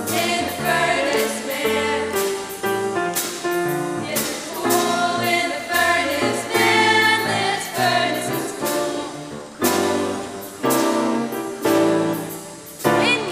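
A choir singing an upbeat gospel-style song over instrumental accompaniment, with a walking bass line and a steady beat.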